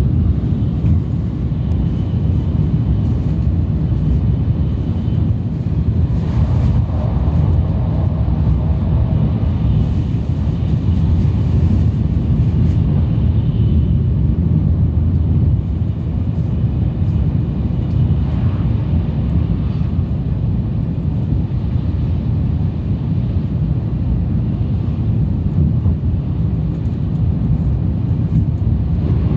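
Steady low rumble and hiss of a Sanyo Shinkansen train running at speed, heard from inside the passenger cabin.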